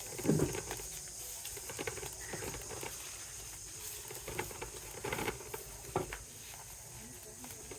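Dry plant fibres rustling and crackling irregularly as they are handled and woven into a nest, with a louder knock about a third of a second in.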